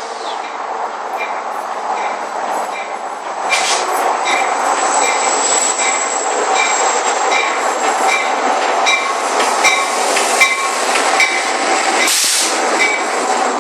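Passenger train running alongside the platform as it comes in: a steady rail rumble with a thin high squeal, a regular ticking about twice a second, and a few short hisses, growing louder about three and a half seconds in.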